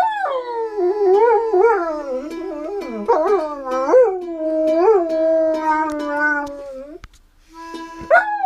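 A dog howling in long, wavering, gliding calls over steady background music. The howling breaks off about seven seconds in and starts again a second later.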